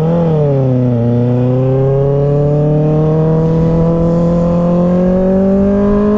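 2024 Kawasaki ZX-6R's inline-four running through an M4 aftermarket exhaust. The revs rise and dip briefly at the start, then climb slowly and steadily as the bike accelerates in one gear.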